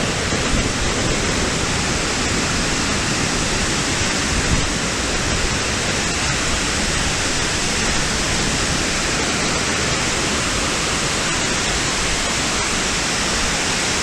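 Waterfall rushing: a steady, loud hiss of falling water with no breaks.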